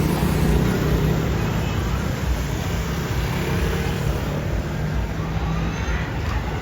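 Steady road traffic noise: vehicle engines running.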